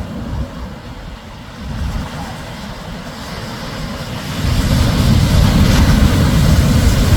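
Shorebreak surf with a low rumble and a wash of hiss; about four and a half seconds in it swells louder as a wave breaks and rushes up.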